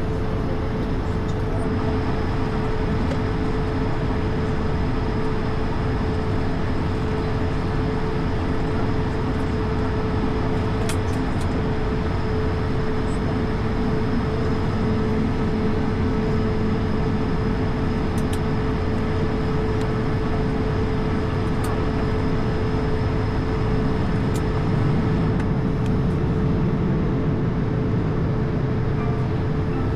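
Airbus A220 on the ground after landing, heard from on board: a steady drone of its Pratt & Whitney geared turbofans at idle over a low rumble, with one steady mid-pitched tone held throughout. A few faint clicks come through, and the rumble swells slightly near the end.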